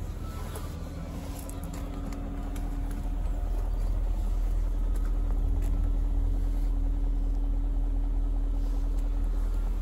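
BMW E38 740i's 4.4-litre V8 engine running with a steady low rumble and hum; it grows louder about three seconds in and then holds steady.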